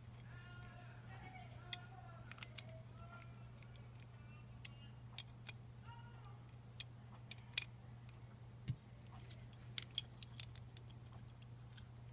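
Scattered small clicks and taps from the parts of a lightsaber hilt being handled during disassembly, over a steady low hum. A faint voice is heard in the first few seconds and again briefly about halfway through.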